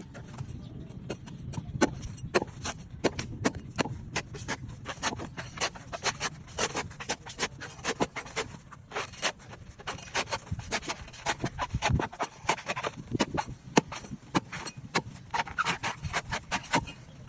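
A knife cutting and peeling away a coconut's fibrous husk: a run of sharp, irregular knocks and cracks, a few each second.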